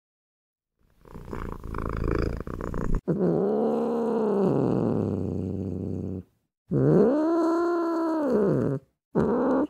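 A cat calling: a rough, rasping sound for about two seconds, then two long drawn-out meows, each rising and then falling in pitch, and a short call at the end.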